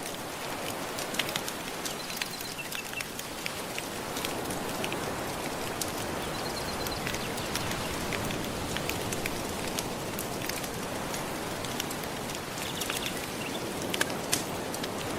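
Steady wash of gentle ocean waves, with scattered crackles and pops from a wood fire.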